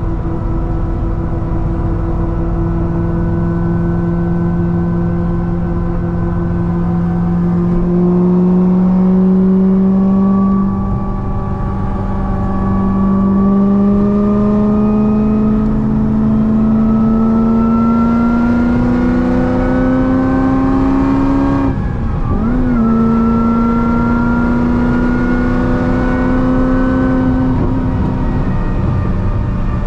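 Supercharged C6 Corvette ZR1 V8, fitted with a Kong 2650 supercharger, running at highway speed, heard onboard. It holds a steady note at first, then the engine pitch steps up about 8 seconds in and climbs slowly as the car pulls harder. About 22 seconds in the pitch briefly drops sharply and recovers, then it runs steady again.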